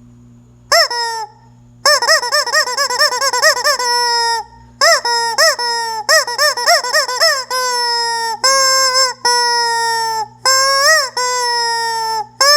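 Hen cackling loudly. It gives runs of quick rising-and-falling notes that each end in a long drawn-out note, and toward the end mostly long held calls, one after another.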